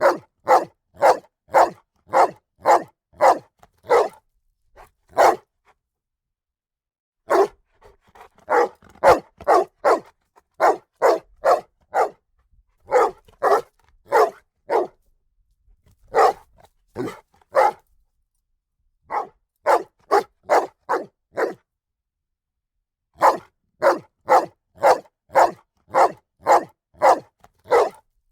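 A single dog barking loudly, in repeated runs of sharp barks about two or three a second, broken by pauses of a second or two.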